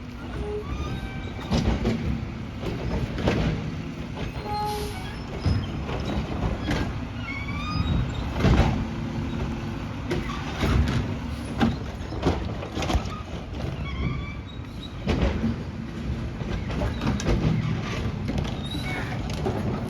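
Labrie Automizer automated side-loader garbage truck at work: engine running under load with a series of clanks and bangs as the arm grabs and slams cans, and brief high squeaks in between.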